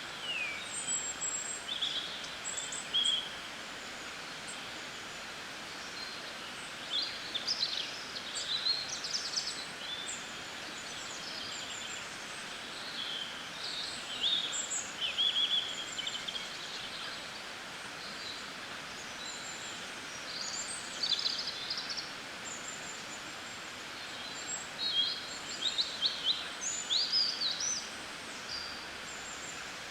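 Small birds chirping in short high, quick-sweeping calls, coming in bunches every few seconds with pauses between, over a steady background hiss of outdoor ambience.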